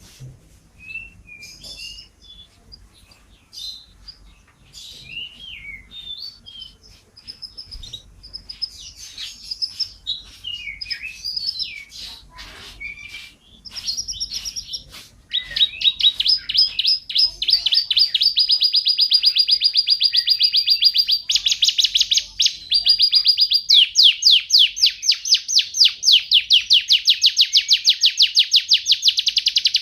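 Domestic canary singing: scattered short chirps and warbled whistles at first, then from about halfway in, louder rapid rolling trills held for a couple of seconds each with brief breaks between them.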